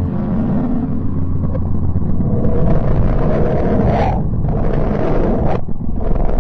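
Space-sound sonification presented as the sound of the planet Mercury, electromagnetic vibrations translated into audio: a dense rumbling roar over a steady low hum, briefly dipping about four and again about five and a half seconds in.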